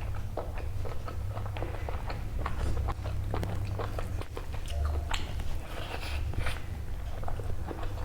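Close-miked wet chewing and lip-smacking of rice and chicken curry eaten by hand: many short, irregular smacks and clicks over a steady low hum.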